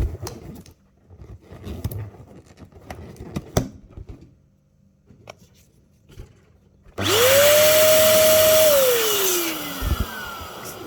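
An electric balloon pump switches on about seven seconds in with a steady high whine. It runs for about two seconds, then is switched off and winds down with a falling pitch. Before it come scattered small clicks and rustles.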